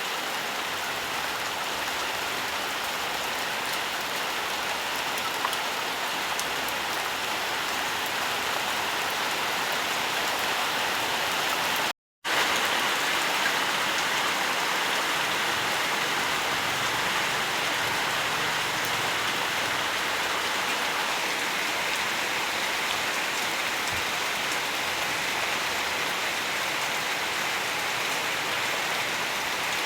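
Steady heavy rainfall, a dense even hiss of drops on surfaces, that cuts out to silence for a split second near the middle and resumes.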